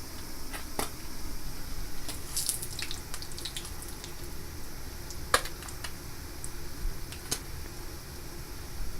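Horse mackerel frying in hot oil: a steady sizzle with scattered sharp pops.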